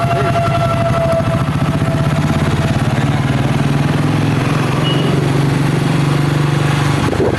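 Royal Enfield Classic 350's single-cylinder engine running steadily under way, with a low, even pulsing beat.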